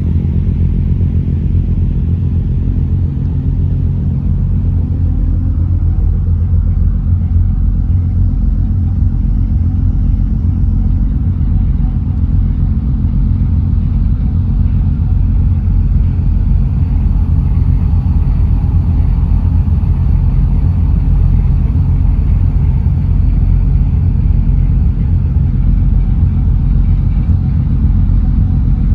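An engine running steadily with a loud, low rumble that holds even throughout.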